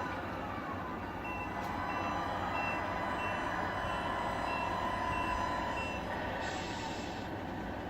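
Reversing beeper of an RC truck, about eight short high beeps evenly spaced at a little under two a second, which stop partway through, over a steady running noise.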